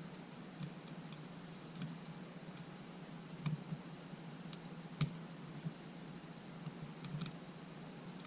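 Scattered small clicks and taps of tools and small camera parts being handled on a workbench, irregular, the sharpest about five seconds in, over a steady low hum.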